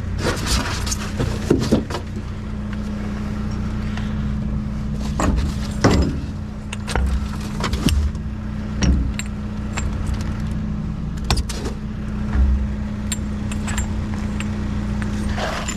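A vehicle engine idling steadily, with scattered metallic clinks and knocks of small steel scrap being handled.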